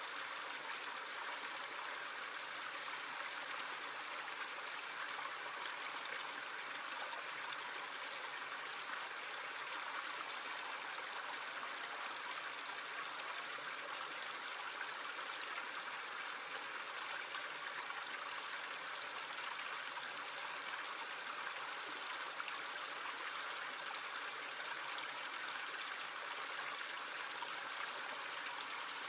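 Small stream running steadily over rocks, an even rushing and trickling of water.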